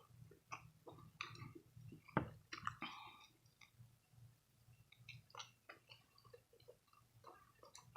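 A person chewing food: faint, irregular small clicks and smacks of the mouth, a little louder about two to three seconds in.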